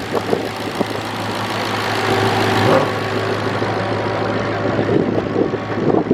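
A car engine idling steadily, a low even hum over rough background noise.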